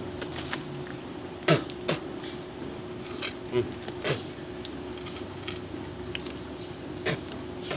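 A man biting and chewing on a hollow block: a handful of short, sharp crunches with grunts, spaced a second or two apart, over a steady low hum.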